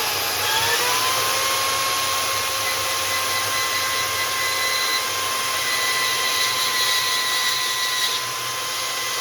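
Hercules portable bandsaw's motor running with a steady whine while the blade cuts through steel sheet about 1/8 inch thick, with a steady hiss of blade on metal under the whine. The pitch dips and settles in the first second, then holds.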